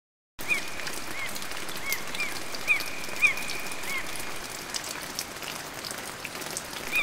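Repeated short bird chirps, each a quick up-and-down note, over a steady hiss, starting suddenly about half a second in, with a thin high tone held for a while in the middle.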